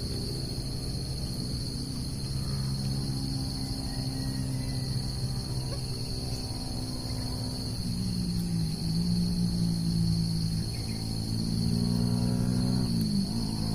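Steady, continuous high-pitched chirring of crickets or other insects, over a low droning hum that shifts pitch a couple of times.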